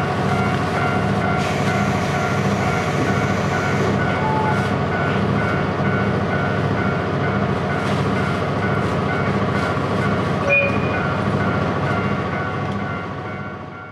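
Interior running noise of a JR Hokkaido Series 711 electric train: a steady rumble with several constant tones over it. It fades out near the end.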